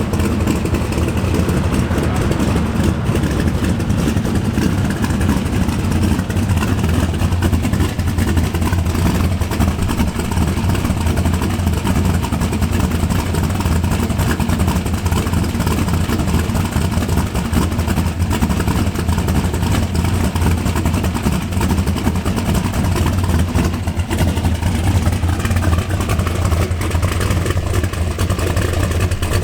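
Muscle car's V8 engine running at low revs, a steady, deep exhaust note with little change in pitch.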